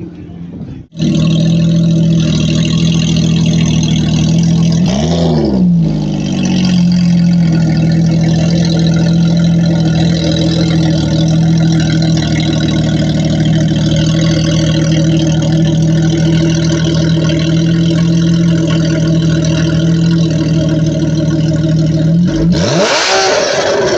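Car engine held at steady high revs, starting abruptly about a second in, with a quick drop and rise in pitch about five seconds in and again near the end.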